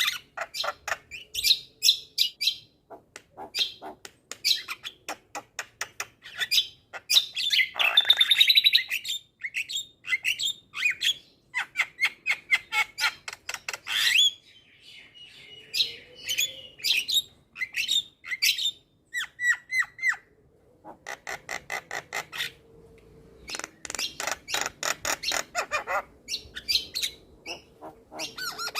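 Javan myna singing: long runs of rapid clicking, rattling notes and harsh squawks, with short whistled chirps and brief pauses between phrases, loudest about eight seconds in.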